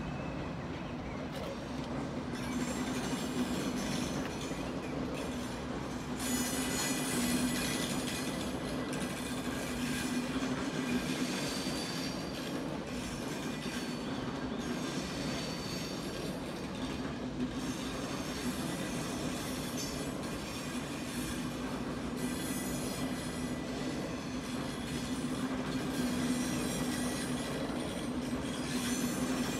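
Passenger train rolling slowly through a station: a steady low rumble of the train with steel wheels squealing high now and then.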